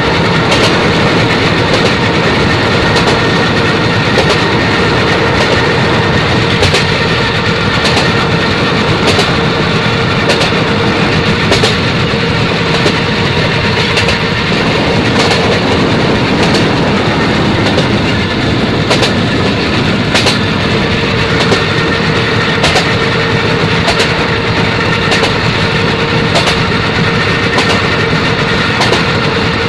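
A train running along the track: a steady rumble with sharp clicks of the wheels over rail joints, recurring about once a second.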